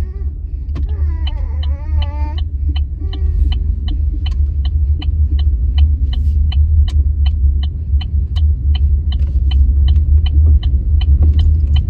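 Car turn signal clicking in a steady rhythm, about two to three clicks a second, over the low rumble of the car running in the cabin.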